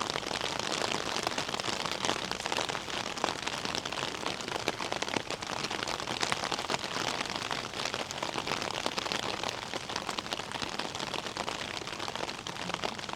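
Steady rain falling, a dense even patter of many small drops hitting hard surfaces.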